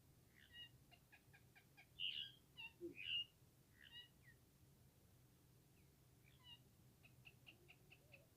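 Pet parrot calling: runs of short, quick chirps with a few louder squawky calls about two and three seconds in, and another run of chirps near the end.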